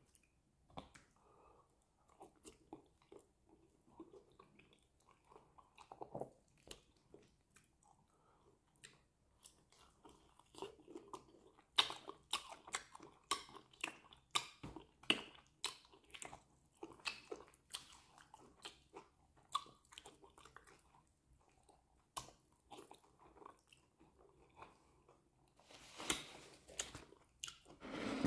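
Close-up mouth sounds of a person eating soft amala and fish in banga soup by hand: wet chewing and lip-smacking clicks that get busier about halfway through, with a longer, louder wet stretch near the end.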